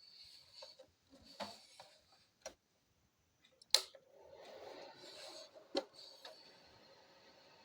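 A few sharp plastic clicks, as of a small space heater's switches being pressed; after the loudest click, about four seconds in, a steady fan-like whir starts and runs on.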